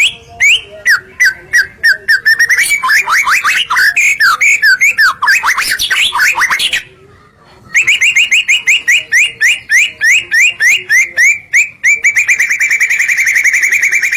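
White-rumped shama (murai batu) singing a loud, rapid song of sweeping whistled notes. There is a short break about seven seconds in, then a string of evenly repeated notes that quickens into a fast trill near the end.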